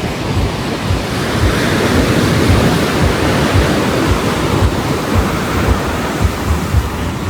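Surf washing onto the beach, a swell of rushing water building and easing, with wind buffeting the microphone in low thuds.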